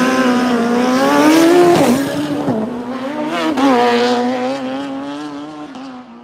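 Drag-racing motorcycle engine held at high revs, its pitch wavering with a few quick dips, fading over the last couple of seconds.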